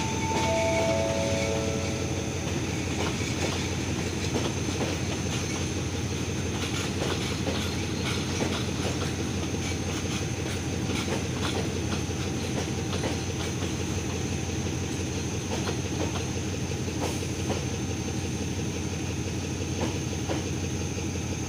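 Passenger train coaches rolling past on jointed track, a steady rumble with wheels clicking over the rail joints. About half a second in, a short four-note descending chime sounds.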